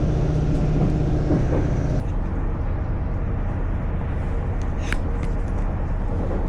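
Diesel train running on the line, heard from inside the carriage: a steady engine hum and rail rumble. About two seconds in the sound changes abruptly to a plainer rumble, and a brief squeal rises about five seconds in.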